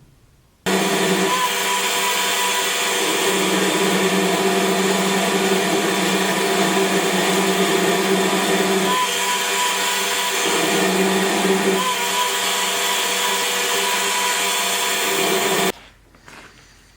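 Electric power tool motor running steadily, starting and stopping abruptly. Its hum shifts briefly partway through.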